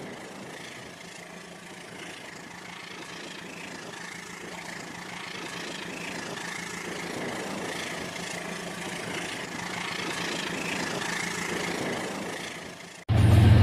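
Remote-control toy train running along its track, a steady motor whir and wheel rumble that slowly grows louder. Near the end it cuts off abruptly and a loud low-pitched drone takes over.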